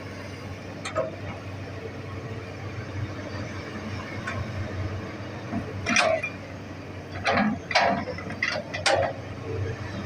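Hitachi hydraulic excavator's diesel engine running steadily, with a series of sharp knocks from the machine working, most of them bunched in the second half.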